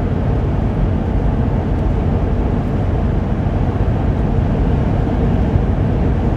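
Class C motorhome cruising on the highway, heard from inside the cab: a steady low drone of engine, tyres and road.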